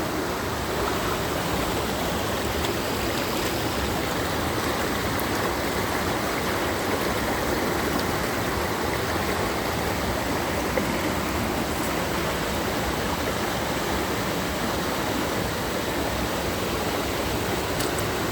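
Mountain valley stream running: a steady, unbroken rush of flowing water.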